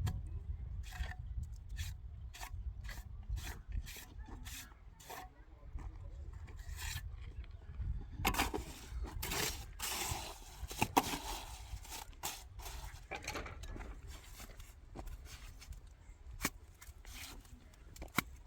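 Repeated scraping or rasping strokes, about two a second at first, then a denser stretch of scraping midway, over a steady low rumble.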